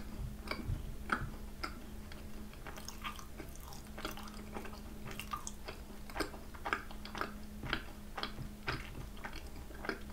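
Close-up chewing of a vanilla crème brûlée macaron, its torched-sugar-topped shells and filling giving a quick, uneven run of small wet clicks and crunches as it is chewed.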